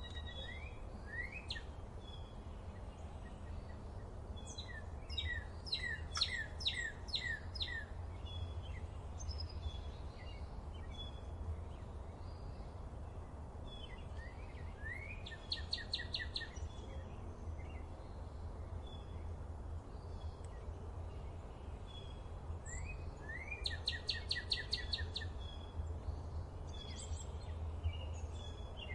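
Songbirds singing in a forest: scattered chirps and three bursts of rapid, trilled song roughly ten seconds apart, over a steady low rumble.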